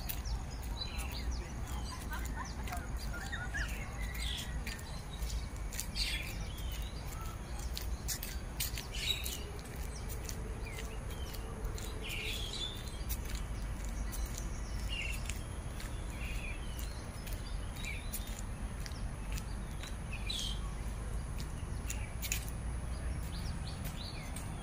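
Birds chirping, short calls scattered irregularly, over a steady low rumble.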